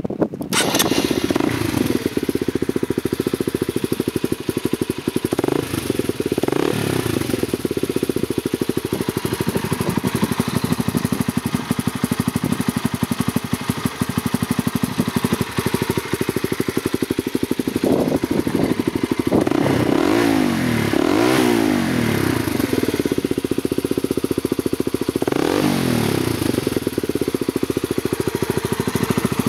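A Honda CBR150's single-cylinder four-stroke engine idles through an aftermarket WRRP carbon fibre exhaust. The throttle is blipped briefly about six times, each rev rising and falling quickly in pitch, mostly in the second half.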